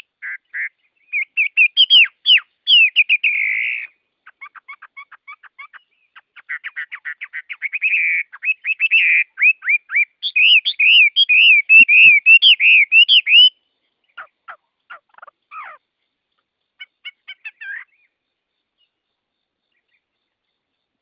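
Songbirds singing in rapid trilled phrases of quick chirps, loudest about halfway through. The song thins to a few short phrases and stops a few seconds before the end.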